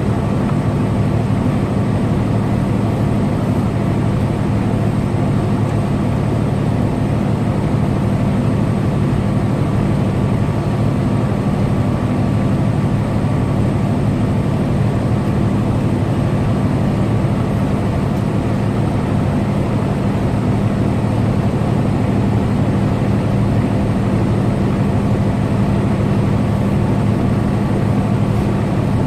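Semi truck's engine and tyres droning steadily while cruising at highway speed, a constant low hum with no change in pitch.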